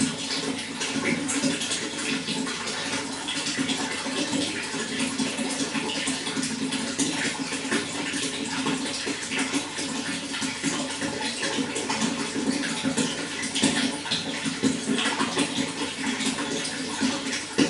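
Running water flowing steadily with many small splashes and a low gurgle underneath.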